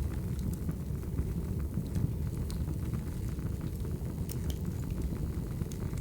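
Crackling wood fire: a steady low rumble of burning logs with scattered sharp crackles and pops.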